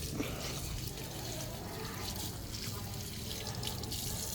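Water running steadily, as from an open tap, starting suddenly.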